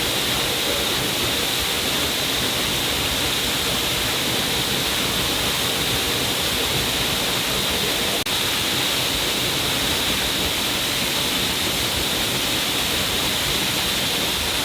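A stream of water pouring down a cliff face, a steady rushing splash of falling water. There is a split-second drop in level about eight seconds in.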